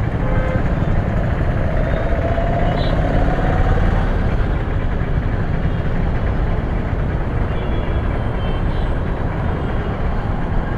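Steady, heavy rumble of road vehicles and engines, with a faint rising whine during the first few seconds.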